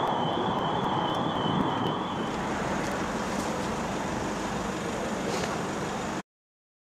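Steady outdoor vehicle noise, with a car engine running close by and a low rumble that may be wind on the microphone. A thin high whine stops about two seconds in, and all sound cuts off abruptly just after six seconds.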